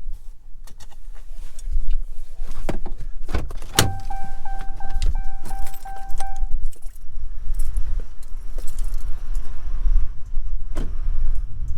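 Keys jangling and clicks of handling in a vehicle, with a steady pulsing electronic chime from about four seconds in, lasting about three seconds, like a pickup's key or door-ajar reminder. A low steady rumble runs underneath.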